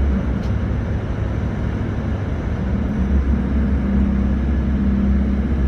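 Tour coach engine and road noise heard from inside the moving coach: a steady low drone, with a hum that strengthens about three seconds in.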